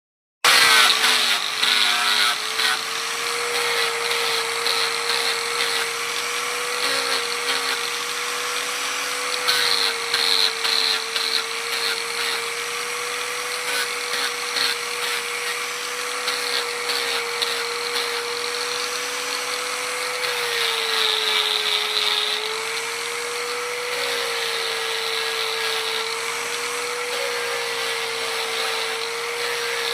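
Electric power tool running steadily with a high motor hum and a hissing, rasping noise over it. The hum dips briefly in pitch about two-thirds of the way through.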